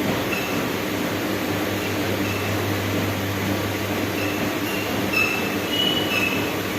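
Treadmill running: a steady motor hum and belt noise, with a few short high squeaks toward the end.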